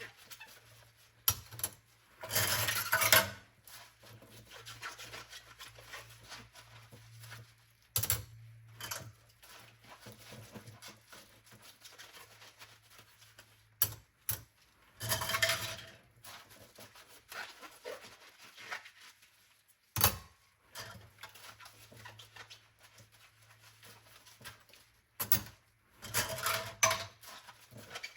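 Dishes being washed by hand: rubbing and scrubbing with sharp clinks of crockery and cutlery, and four short louder clattering bursts spread through the stretch.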